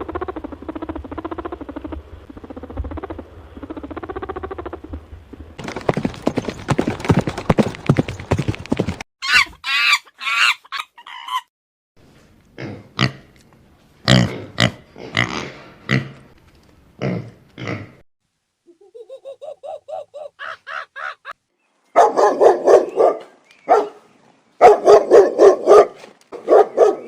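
A string of different animal calls cut one after another: a steady pitched call, a pulsing noisy stretch, short high rising cries, a run of short grunts and a rising pulsed call, ending with a dog barking repeatedly.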